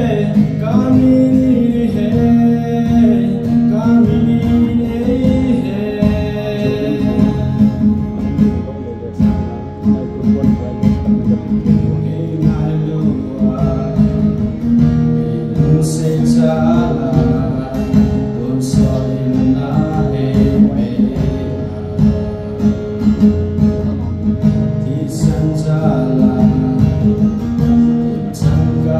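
A song sung with acoustic guitar accompaniment: voice carrying the melody over strummed guitar.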